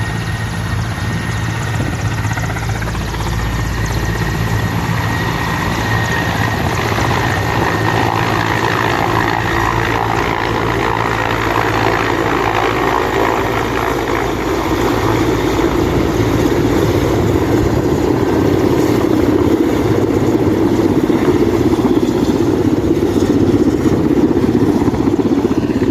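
Helicopter running at takeoff power with a steady low rotor beat. The beat fades about halfway through while a louder rushing noise builds toward the end.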